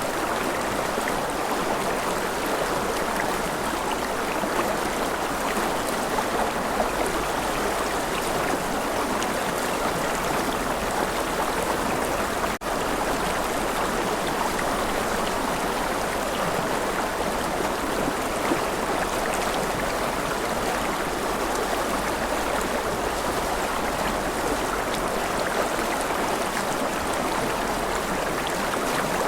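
River water flowing steadily, an even rushing and gurgling, with a split-second dip about twelve seconds in.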